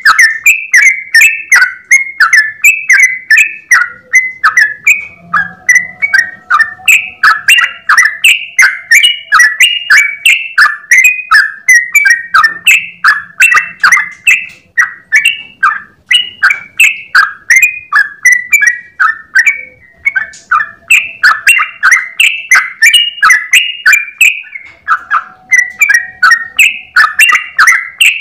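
Yellow-vented bulbul (trucukan) singing in a long, unbroken run of short, bubbly notes, about three a second, with no pauses: the rapid continuous 'ropel' song.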